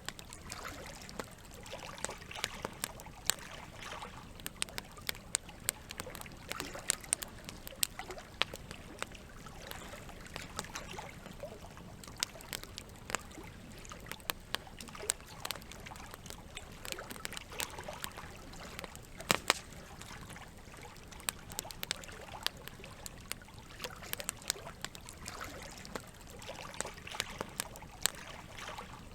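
Campfire crackling with frequent sharp pops over a steady trickle of running water; one pop about two-thirds of the way through is louder than the rest.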